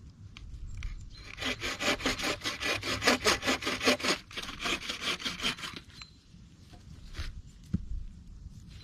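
Hand saw cutting wood in quick, even strokes for about four and a half seconds, then stopping; a few light knocks follow.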